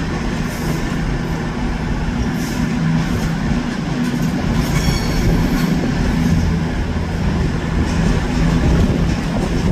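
A train running on the track, with a steady low drone and running noise throughout and a brief high-pitched wheel squeal about halfway through.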